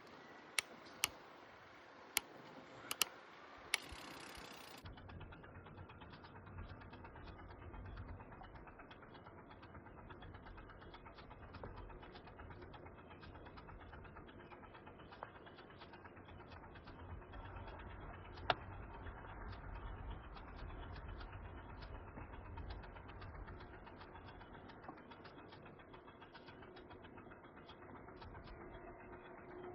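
Riding bicycle: wind rumbling on the microphone, with rapid mechanical ticking from the bike. A few sharp clicks come in the first four seconds, and the low rumble starts about five seconds in.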